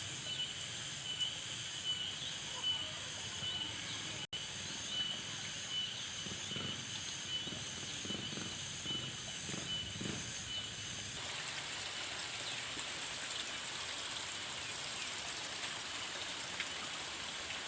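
Outdoor farmland ambience: a steady hiss with a high, even hum, and faint voices in the middle. The background changes abruptly about eleven seconds in to a plainer hiss.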